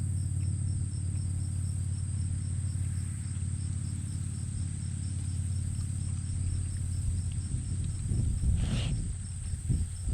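Crickets chirping steadily, an even high trill with a pulsing chirp beneath it, over a low steady rumble. About eight and a half seconds in there is a brief rustle.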